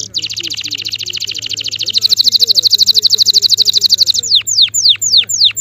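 Male canary singing: a very fast, even high trill that gets louder about two seconds in, then changes near the end to a run of steeply falling whistled notes, about three a second.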